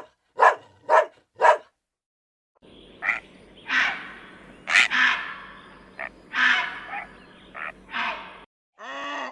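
Animal calls from two recordings. First comes a run of short sharp calls about half a second apart. After a brief gap, a second animal gives about eight harsh, ragged calls of varying length over a low steady hum.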